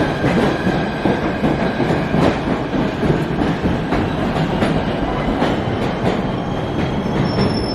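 Subway train running, heard from inside the car: a loud, steady rumble with the clatter of wheels over rail joints and a thin, high whine.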